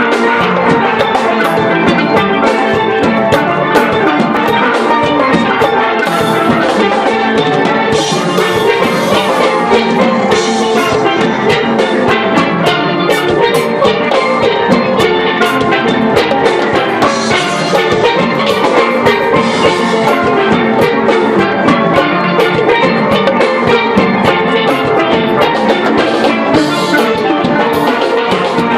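Steel band playing: several steelpans ringing out a melody and chords over drums, with a steady, driving rhythm.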